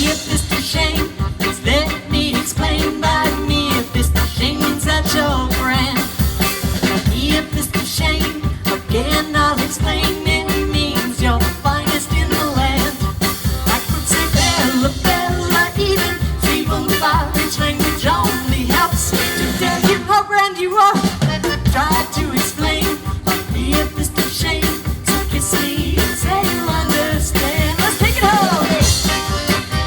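Live dance band with drum kit playing an up-tempo swing-style tune over a steady driving beat. The band stops for a moment about two-thirds of the way through, then comes back in.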